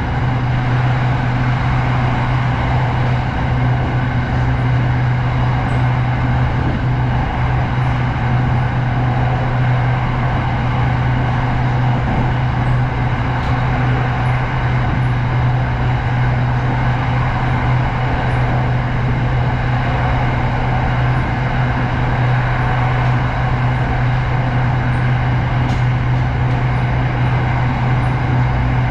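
SRT Red Line electric commuter train running at steady speed: a constant low hum over an even rumbling noise that does not change.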